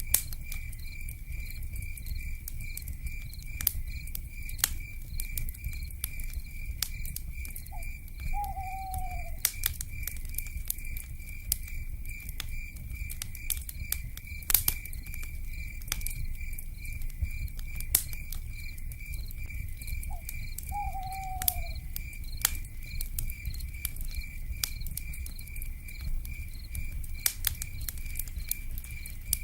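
Wood fire crackling with scattered sharp pops over a low rumble, while an insect keeps up a steady high pulsing trill. A short, slightly falling owl call sounds twice, about 8 and 21 seconds in.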